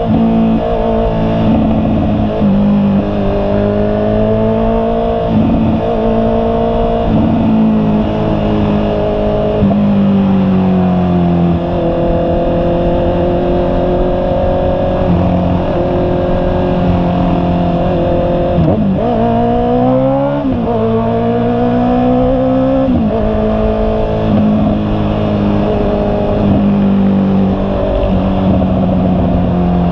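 Honda CB650R's inline-four engine running under way, the revs holding steady, then dropping and climbing again as the gears change, with one sharp fall and rise about twenty seconds in. A steady rush of noise runs underneath.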